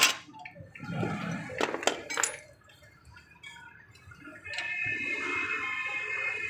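Metal tools and suspension parts clinking and knocking a few times, then a steady whirring sound with a high whine that starts about four and a half seconds in.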